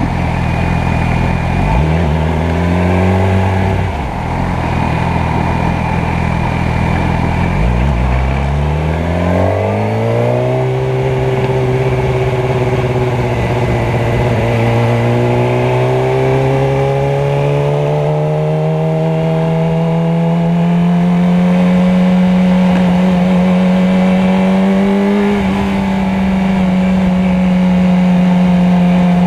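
Motorcycle engine running at a fairly steady note for several seconds. About eight seconds in its pitch climbs, then keeps rising slowly and steadily as the revs build.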